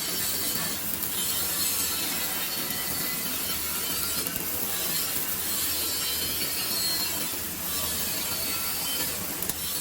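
Electric welding arc crackling steadily during a vertical-position (3G) weld, with a few brief dips in the crackle.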